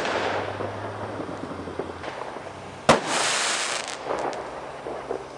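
Fireworks going off: a rushing noise at the start, then one sharp loud bang about three seconds in, followed by about a second of high crackling hiss, with smaller pops near the end.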